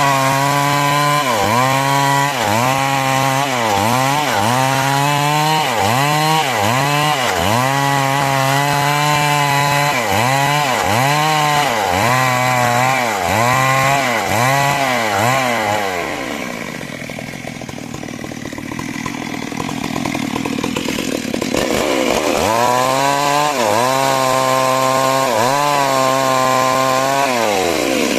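Two-stroke chainsaw ripping timber into rafters. The engine runs at high revs and its pitch sags and recovers about once a second as the chain loads in the cut. About sixteen seconds in it drops back and runs quieter for several seconds, then revs up and cuts again.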